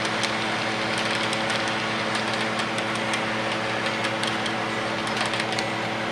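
HO scale model train running on the layout: a steady hum with a scatter of light, rapid clicks over it.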